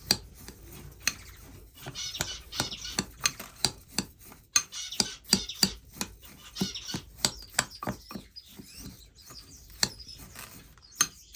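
Utensil clinking and scraping against a container while stirring oiled bird seed, with many quick irregular clicks and the rustle of seed. Small finches chirp in the background.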